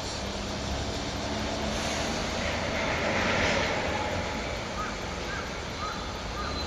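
Freight train hauled by a DD51 diesel-hydraulic locomotive: a steady engine drone and rumble that swells to its loudest about halfway through.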